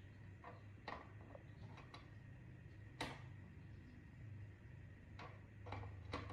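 Faint, irregular light clicks and taps, about eight of them, the sharpest about three seconds in, over a low steady hum.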